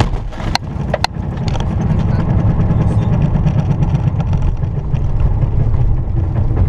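Steady low rumble of a car driving, engine and road noise, with two sharp clicks in the first second.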